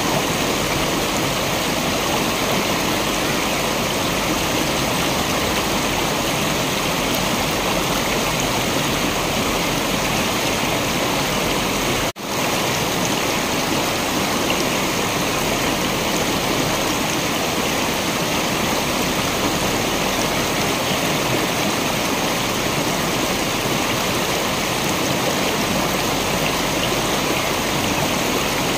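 Waterfall rushing as a steady, even wash of water noise, with one very short break in the sound about twelve seconds in.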